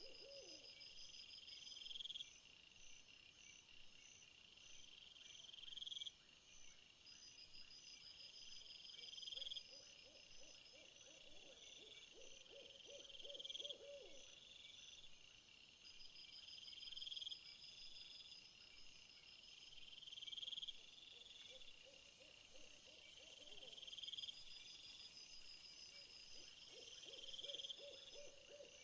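Faint nature ambience of chirping insects: crickets trilling in phrases that repeat about every two seconds, with a higher buzzing insect joining from about two-thirds of the way through. A lower animal call sounds now and then underneath, about three times.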